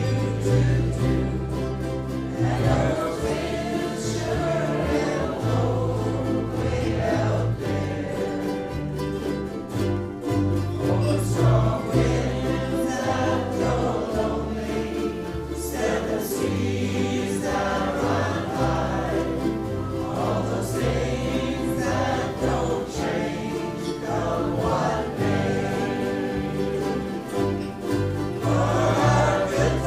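A large group of amateur voices singing a slow folk song in unison, accompanied by strummed ukuleles and a steady bass line.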